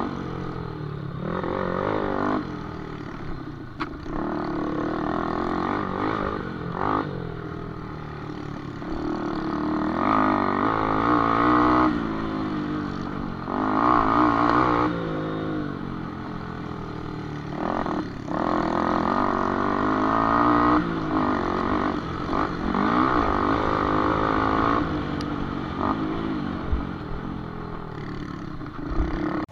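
Motorcycle engines at a cup cross (small-motorcycle motocross) track, revving up and easing off over and over, their pitch rising and falling with a louder surge every few seconds. A few sharp clicks are mixed in.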